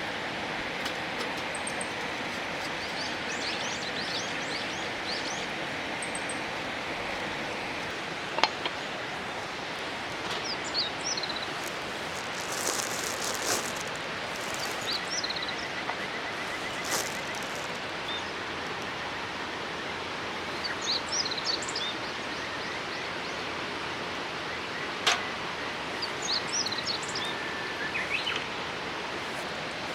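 Steady rush of flowing river water with small birds chirping now and then, and a couple of sharp clicks.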